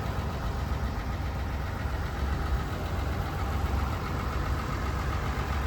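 3.0L Duramax inline-six turbodiesel of a GMC Sierra idling steadily with a low rumble.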